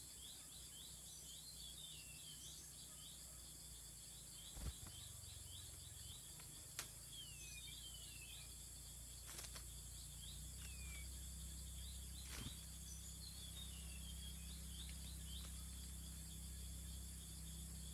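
Steady chirring of insects, with short falling bird chirps here and there, a few sharp clicks, and a low rumble underneath.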